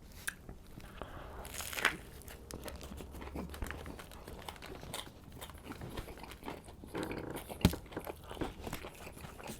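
A man chewing and biting into an untoasted Subway Club sandwich: soft, wet mouth sounds with scattered small crunches, and a sharper snap about two seconds in and another near the end.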